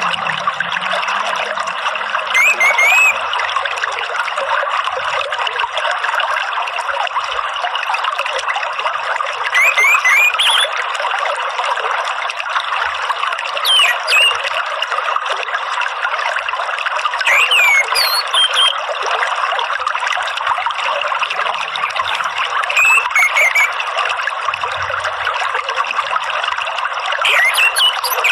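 Steady trickling of running water, with short whistled phrases of an orange-headed thrush (anis merah) breaking in every few seconds, about six times.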